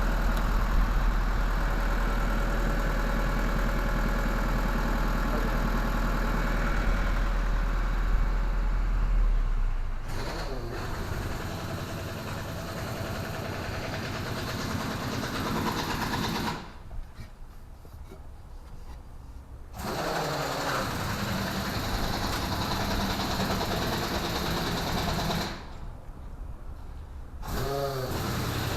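H-Thermo truck refrigeration unit running steadily after a repair to its condenser fan wiring. A deep hum under it stops about ten seconds in, and the sound drops away briefly twice, later on.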